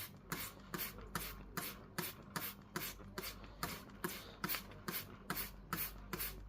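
Hand trigger spray bottle squirting a mist of water over a pet cockatiel, in rapid even squirts of hiss, several a second.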